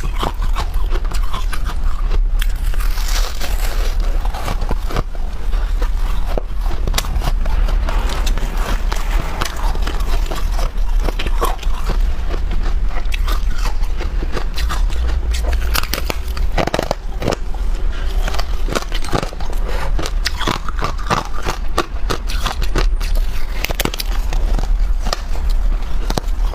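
Freezer frost being bitten and chewed close to the microphone: dense, irregular crisp crunches and crackles with some scraping, over a steady low hum.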